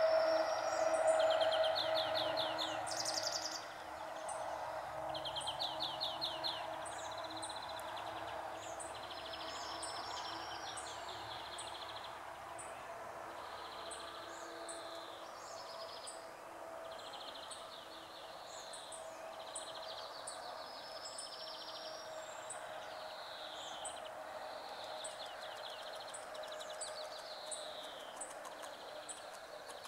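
Several birds singing: repeated buzzy trills and down-slurred phrases with short high chips, over a steady background hiss and a faint steady hum.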